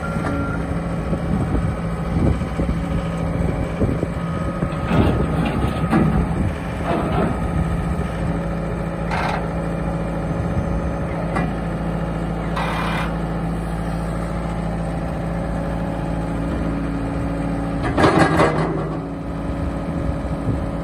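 Yanmar T210 tracked skid steer's diesel engine running steadily, with several short clanking, hissing noises from the machine, the loudest about eighteen seconds in. Its reversing alarm beeps briefly at the very start.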